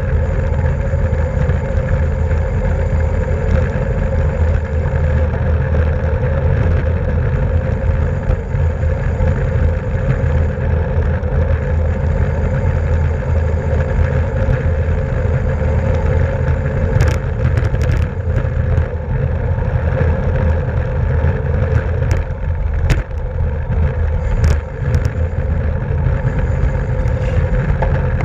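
Steady rush of wind and road noise on a racing bicycle's camera microphone while riding in a criterium, with a few sharp clicks in the second half.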